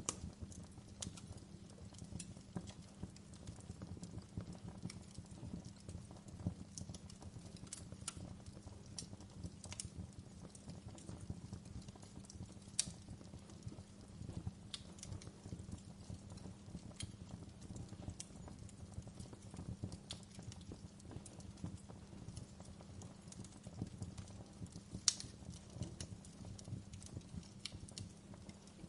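Low-burning wood fire crackling in a fireplace: irregular sharp pops and snaps over a steady low rumble, with a couple of louder pops, one near the middle and one near the end.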